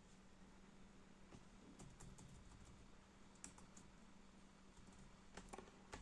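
Faint, scattered key presses on a freshly replaced MSI Prestige 15 laptop keyboard, a few soft clicks at a time with pauses between, as individual keys are tested.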